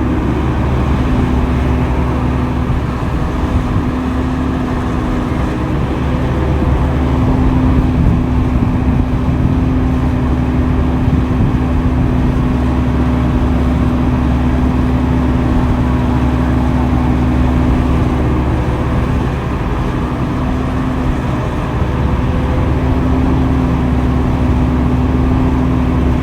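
Diesel engine of heavy earthmoving machinery running steadily at a constant speed, with a steady low hum and no big changes in pitch or level.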